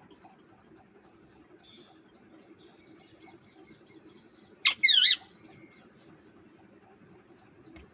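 A parrot gives one loud, harsh squawk about halfway through, a half-second call of quick falling notes, over a low steady background noise.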